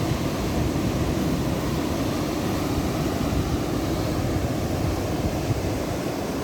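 Ocean surf: a steady, low rush of waves with no distinct breaks.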